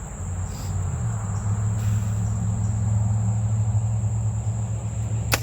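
A steady low rumble of road traffic under a constant high insect trill, then near the end one sharp snap of a bow string loosing an arrow.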